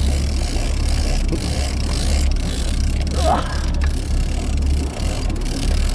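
Fishing boat's engine running with a steady low hum under wind and water noise. A short voice-like sound rises and falls about three seconds in.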